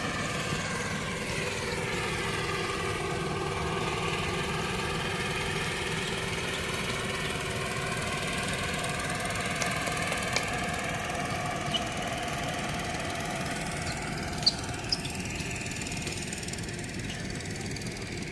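An engine running steadily in the background, its tone slowly shifting, with a few faint clicks.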